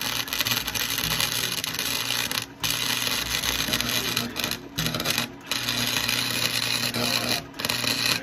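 A flux-core wire-feed welder's arc crackling and sizzling steadily under a low electrical hum. It breaks off briefly four times as the trigger is let go, then stops abruptly at the end.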